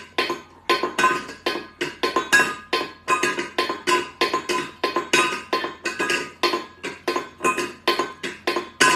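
A rapid, fairly regular series of short, sharp clinking taps with a ringing tone, about three to four a second.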